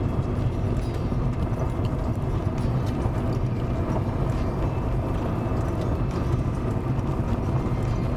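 Steady low road and engine rumble inside a moving vehicle.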